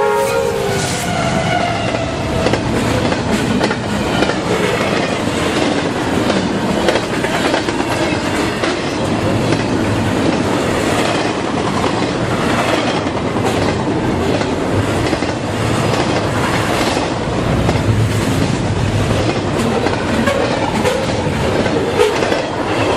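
A double-stack intermodal freight train passes close by at speed, its steel wheels clattering over the rail joints in a steady, loud rush. The tail of the locomotive's horn cuts off in the first second.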